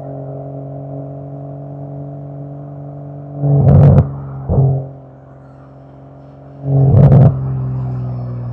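Toyota Supra MK5 with a titanium aftermarket exhaust, its engine note droning steadily under way. The car revs up loudly twice, about three and a half and seven seconds in, each time with crackles from the exhaust, and there is a brief third rev just after the first.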